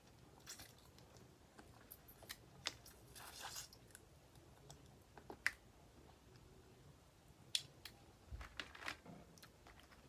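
Boiled crawfish being shelled and eaten close to the microphone: scattered sharp cracks and clicks of shell, with soft chewing between them, and a small cluster of cracks and a low thump near the end.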